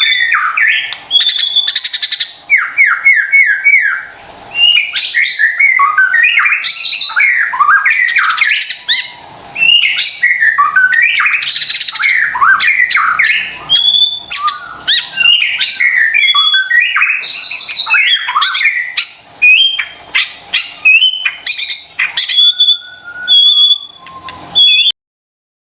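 White-rumped shama (murai batu) singing loudly and continuously: a fast, varied song of quick rising whistles, note runs and sharp clicks in short phrases with brief gaps. It cuts off suddenly near the end.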